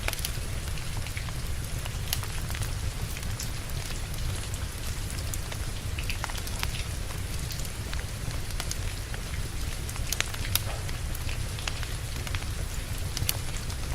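Steady rain falling, with a low rumble underneath and sharp crackles from a wood fire scattered irregularly throughout.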